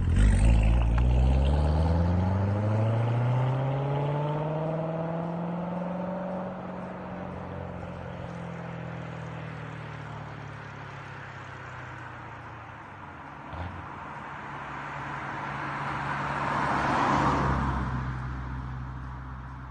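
C7 Corvette Z06's supercharged LT4 V8 accelerating away, its note climbing in pitch as it fades into the distance. Late on, a vehicle's rush of noise swells to a peak and dies away as it passes.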